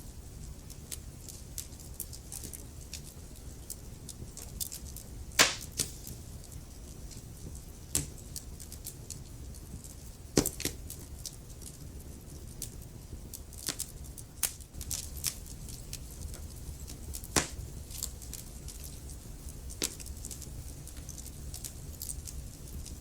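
Wood fire in a fireplace crackling: irregular small pops and ticks throughout, with about five louder snaps, over a low steady rumble.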